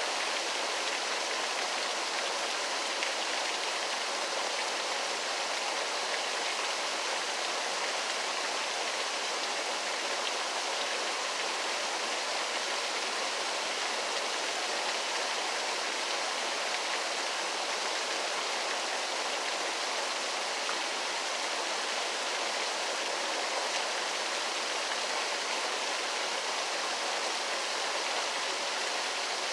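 Waterfall: a steady, unchanging rush of falling water, mostly hiss with little deep rumble.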